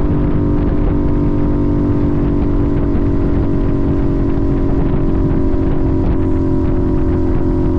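Sportbike engine running at steady revs while riding, its pitch holding level, with rough low rumble from wind and road underneath.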